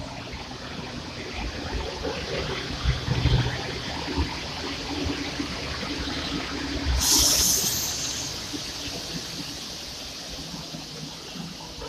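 PKP Intercity passenger train with an EP09 electric locomotive rolling slowly past along a station platform: a steady wash of wheel and running noise. A loud hiss cuts in suddenly about seven seconds in and stops after about a second.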